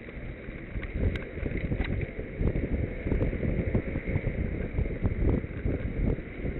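Wind buffeting the microphone of a camera on a moving bicycle: a gusty low rumble that grows louder about a second in, with a few light clicks.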